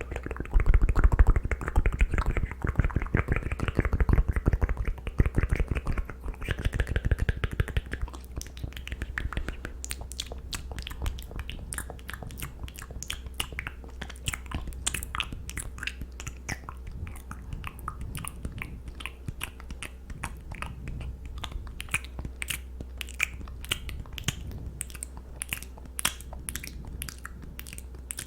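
ASMR mouth sounds: wet clicks and smacks of lips and tongue close to the microphone. They are dense and louder for the first several seconds, then turn into a quick run of sharp, crisp clicks.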